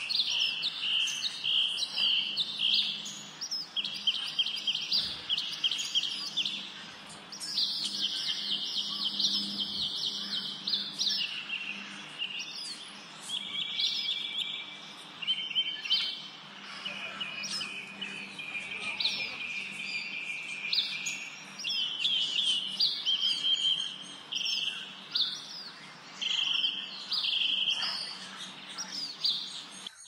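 Many small songbirds chirping and trilling at once, with quick runs of repeated high chirps overlapping throughout.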